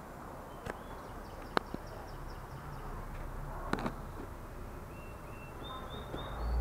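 A small bird chirping in quick runs of short, high notes, one run about a second in and another near the end, over a steady low background hum. A few sharp clicks sound in between.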